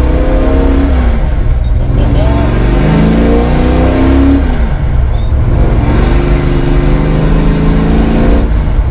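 1967 Ford Mustang Fastback's V8 engine pulling hard under acceleration, heard from inside the cabin. The engine note climbs, drops back at a gear change about a second in and again about halfway through, then climbs once more.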